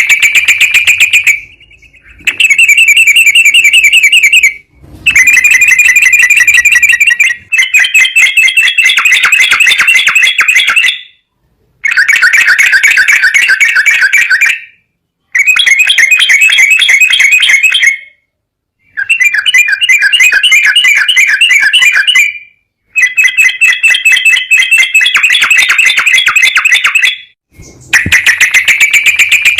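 Recorded songbird lure track: a loud, very fast, shrill trill repeated in phrases of about two to four seconds with short breaks, played to coax a sooty-headed bulbul (trucukan) into singing.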